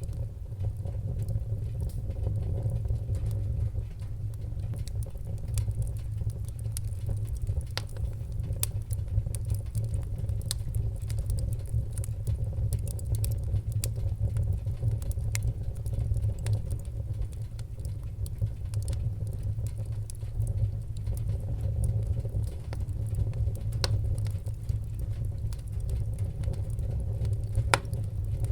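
Wood-burning fire crackling, with many irregular sharp pops and snaps over a steady low rumble of the flames; one louder pop comes near the end.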